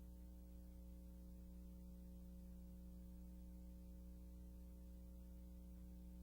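Near silence: a steady low electrical mains hum with faint hiss.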